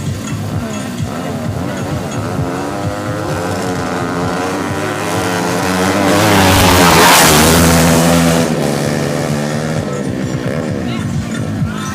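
Drag-racing motorcycle accelerating hard, its engine pitch climbing and loudest as it passes close about seven seconds in, then dropping and fading away. Music plays underneath.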